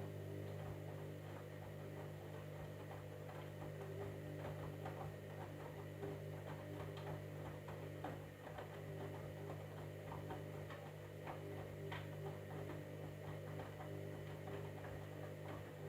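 Candy EcoMix washing machine running: a steady motor hum with irregular light clicking over it.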